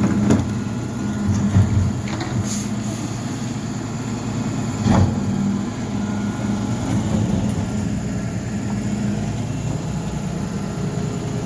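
Garbage truck engine running steadily with an even low hum, with a few sharp knocks near the start, about two seconds in and about five seconds in.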